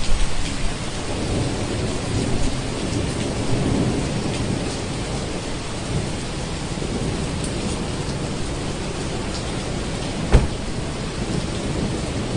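Steady rain with a low rumble of thunder throughout, and one sharp crack about ten seconds in.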